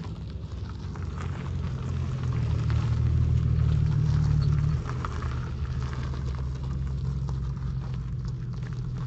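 Infiniti G37x's V6 engine running with a steady low hum. It grows louder from about a second in, holds there for a few seconds, then drops back about five seconds in.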